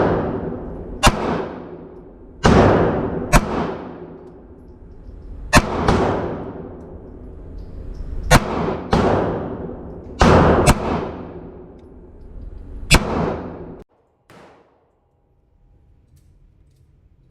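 9mm handgun shots: about ten single shots fired at an irregular pace, each with a long echoing tail. The sound cuts off suddenly about fourteen seconds in, leaving only a faint hum.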